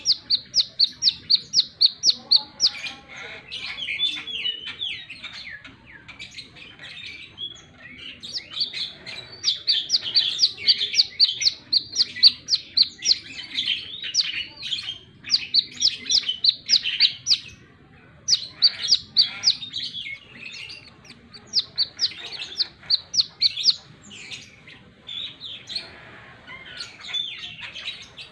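Brown-throated sunbird singing: runs of rapid, evenly repeated high notes, about five a second, each run lasting several seconds, broken by more varied twittering phrases.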